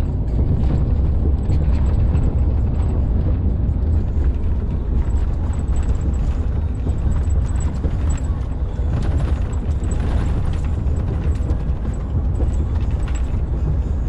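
Truck driving over a rough, worn concrete-slab motorway surface: a steady heavy road and engine rumble with frequent small knocks and rattles as the wheels hit the uneven slabs.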